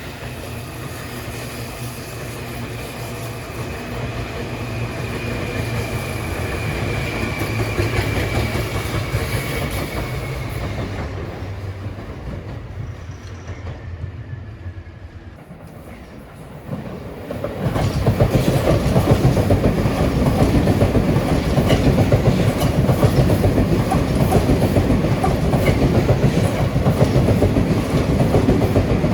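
Seibu Shinjuku Line electric trains at a level crossing. First a train's run-by swells and fades with a whine that slides slowly down in pitch. About 17 seconds in, a train passes close by with loud, rapid wheel clatter over the rail joints.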